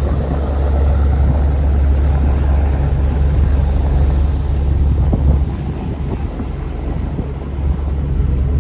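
River tourist boat under way: steady engine rumble mixed with wind buffeting the microphone on the open upper deck. The deep rumble eases for a couple of seconds about five seconds in, then comes back.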